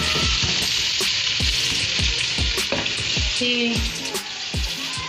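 Onion, garlic and tomato masala sizzling steadily in a non-stick kadhai while a wooden spatula stirs it.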